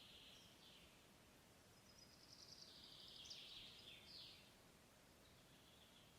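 Faint songbird song, high-pitched phrases: a short one fading just after the start, a longer, louder phrase in the middle and a fainter one near the end, over quiet forest background.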